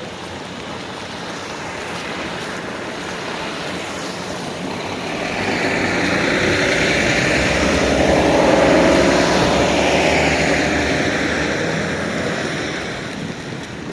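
A large vehicle passing close by on a snowy street: its engine and tyre noise grow louder, peak about two-thirds of the way through, then fade.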